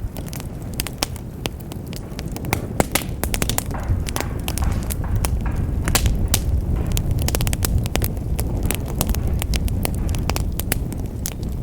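Wood fire in a fireplace crackling, with many irregular sharp pops over a steady low rumble of the flames.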